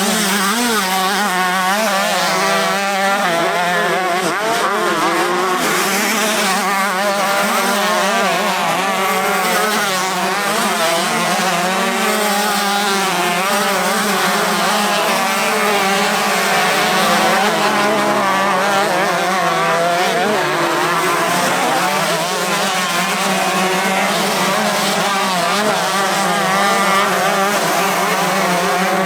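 Several 125cc two-stroke motocross bikes racing together, their engines overlapping and constantly rising and falling in pitch as the riders open and close the throttle.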